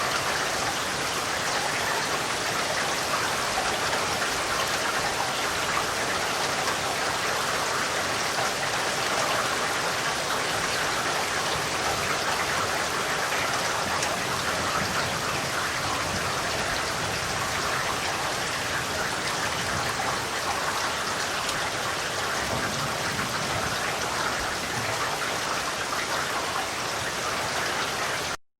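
Steady rain falling, a dense even hiss of many drops; it cuts off abruptly near the end.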